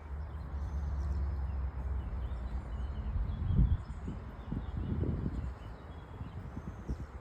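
Low rumble of wind buffeting the microphone, turning into a few soft thumps about halfway through, with faint bird chirps above it.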